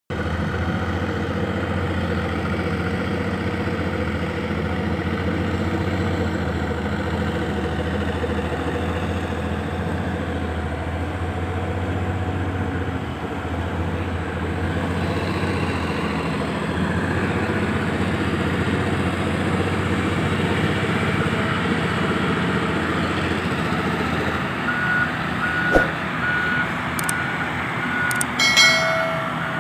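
Dump truck engine running steadily. Near the end, the truck's reversing beeper starts sounding evenly repeated beeps, with a sharp knock among them.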